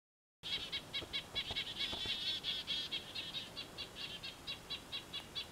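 Silence for about half a second, then a bird calling in a fast run of short, high chirps, several a second.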